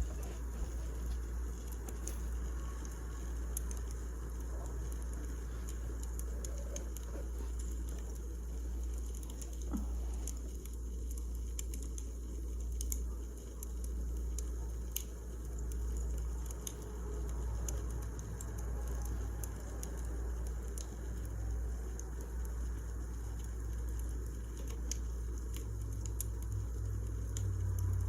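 Wood fire crackling: scattered small pops and snaps over a steady low rumble.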